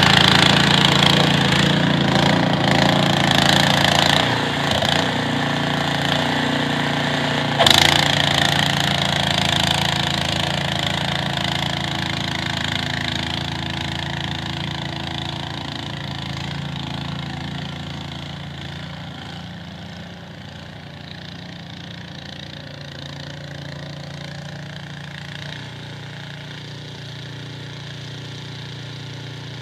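Small engine, likely a snowblower's, running steadily and slowly fading as it moves away, with one sharp knock about eight seconds in.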